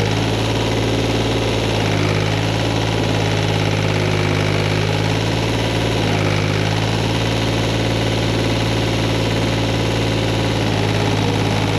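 Tractor engine running at a steady, unchanging speed, close and loud.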